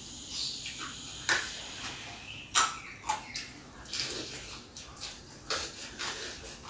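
Crisp crunching and wet chewing of a mouthful of raw leafy greens dipped in sambal, close to the microphone. There are several sharp crunches at irregular intervals, about one a second.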